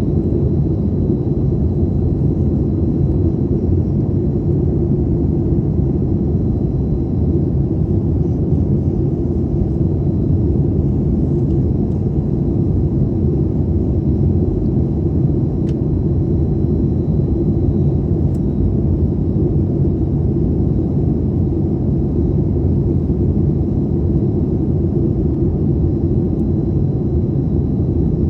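Steady cabin noise inside a Boeing 737 in flight: a constant low rumble of engines and airflow, with a faint thin high tone running through it.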